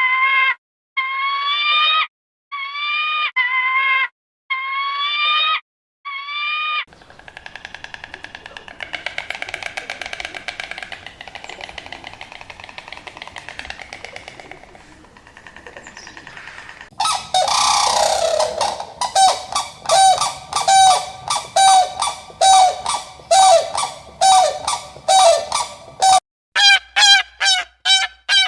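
A series of animal calls: first a run of short, rising cries about a second apart, then a softer rasping, rapidly pulsed sound, then about two-thirds of the way in a fast series of loud honking calls, about two a second.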